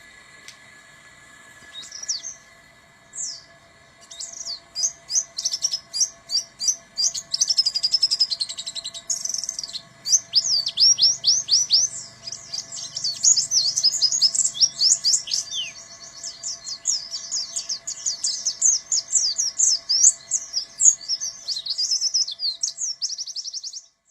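White-eye (pleci buxtoni) singing a long, fast run of high chirps and trills, the canary-like 'tembakan' bursts. A few single calls come first, then the song runs dense and loud until it cuts off just before the end, over a faint steady hum.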